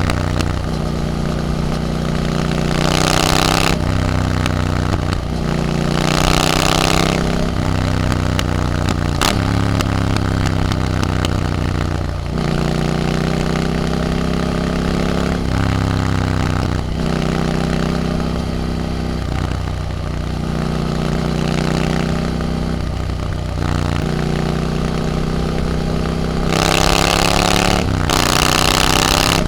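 Triumph Scrambler 900's parallel-twin engine through an Arrow exhaust while riding, its pitch rising as it pulls through each gear, then dropping at each upshift, over and over. A loud rushing noise swells a few times, near the start and near the end.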